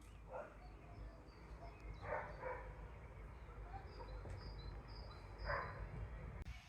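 A dog barking four times, with a bird chirping faintly and a low steady rumble underneath.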